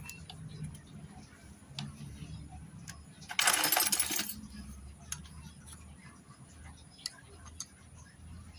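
Small metal engine parts and tools clicking and clinking during hand reassembly of a motorcycle cylinder head, with one loud noisy burst lasting about a second, about three and a half seconds in.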